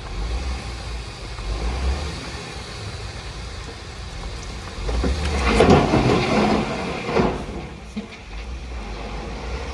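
Heavy diesel earthmoving machinery running with a low rumble. A louder rattling, scraping stretch comes about five seconds in and lasts a couple of seconds.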